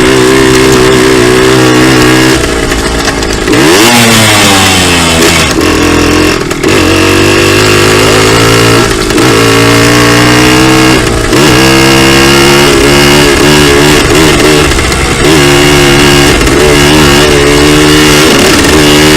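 Dirt bike engine running loud while being ridden, revving up and down, its pitch climbing and falling several times.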